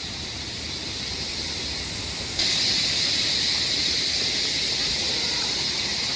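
Waterfall rushing as a steady hiss of falling water, which gets suddenly louder about two and a half seconds in.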